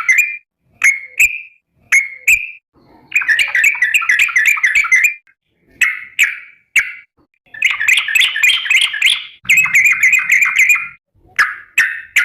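Yellow-vented bulbul (trucukan) calling to flock-mates. It gives bursts of rapid, bubbly chattering notes, some about a second or two long, alternating with short single phrases and brief pauses.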